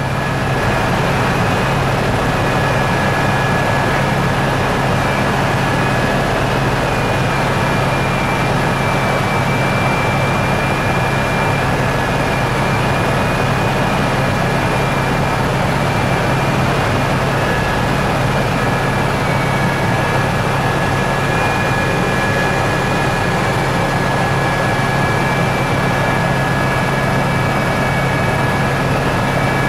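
Helicopter in flight: a steady, unchanging drone of engine and rotor with a thin high whine over it.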